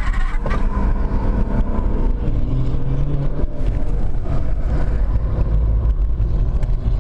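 BMW 325d's straight-six diesel engine under hard driving on track, heard from inside the cabin, its revs rising and falling through the corners and straight.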